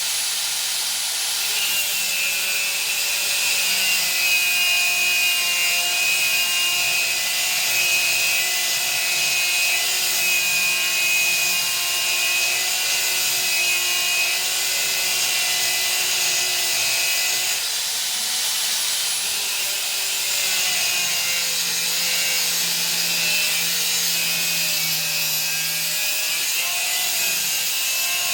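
Angle grinder with a cut-off disc cutting steel: a steady high whine over a continuous grinding hiss, its pitch shifting slightly partway through.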